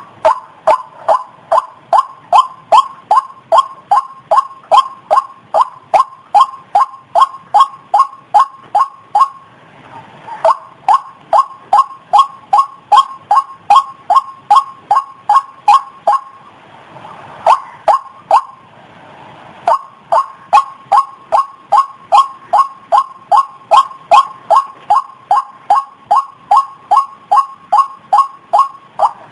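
White-breasted waterhen (ruak-ruak) call repeated as a fast, even series of loud notes, about two to three a second, as used for a bird-trapping lure. It breaks off briefly about nine seconds in and again for about three seconds after the middle, then carries on.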